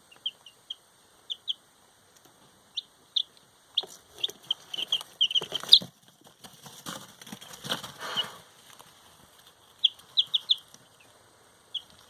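Baby chicks peeping: short, high cheeps in scattered quick runs, with a couple of bursts of rustling noise in the middle.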